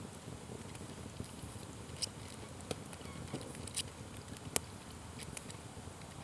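Wood fire crackling, with several sharp pops scattered over a low steady rumble; the loudest pop comes a little after halfway.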